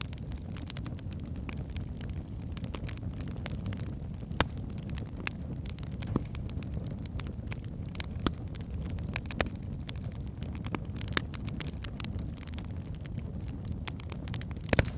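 Wood fire burning in a fireplace: a steady low rumble of flames with irregular sharp crackles and pops from the logs, a few louder pops standing out, the loudest near the end.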